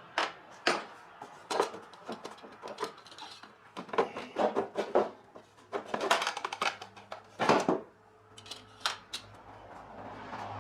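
Irregular metal clinks and clatter of hand tools and loose parts while the cover is unbolted from a Kohler lawn-tractor engine. A low steady hum comes in near the end.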